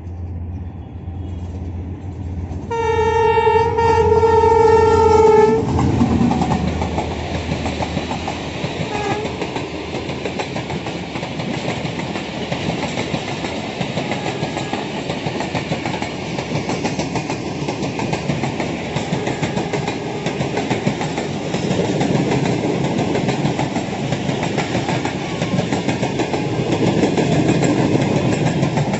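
Diesel locomotive approaching with its engine humming low. About three seconds in it sounds one long horn blast lasting about three seconds, the loudest sound here. Then it passes, followed by the continuous rumble and rattle of a long rake of passenger coaches rolling by on the rails.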